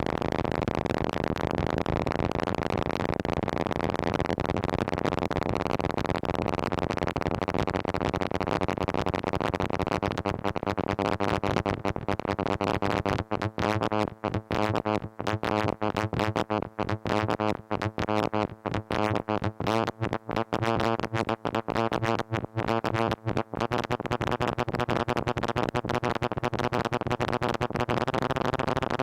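Moog Mother-32 analog synthesizer sounding a sustained, overtone-rich tone whose pitch and timbre wander under chaotic modulation from a Comdyna GP-6 analog computer. From about 13 to 23 seconds in it breaks into rapid stuttering chops with brief gaps, then settles back into a continuous drone.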